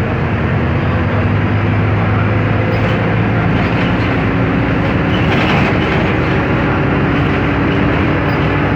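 Scania K310 articulated BRT bus under way, its engine running with a steady drone over road noise.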